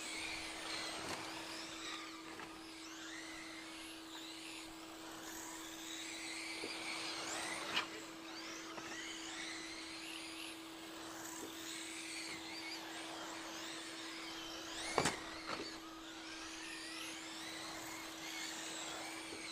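Several electric short-course RC trucks racing, their brushless motors whining and rising and falling in pitch as they accelerate and brake around the track, over a steady low hum. There are sharp knocks about eight seconds in and again near fifteen seconds, trucks hitting something or landing.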